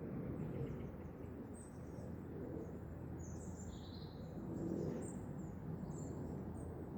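Faint, steady low rumble of a jet plane passing overhead, swelling slightly around the middle, with small birds chirping now and then.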